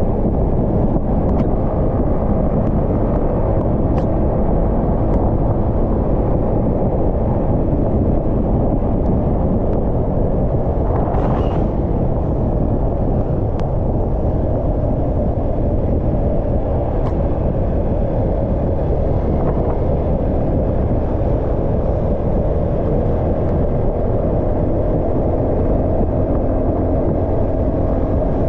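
Steady wind rush on the microphone with the engine and road noise of a 150cc motorcycle cruising at a constant speed. A short hiss comes about eleven seconds in.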